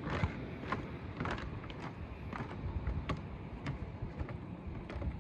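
Footsteps of people walking on a hiking trail, short crunches about twice a second over a low steady rumble.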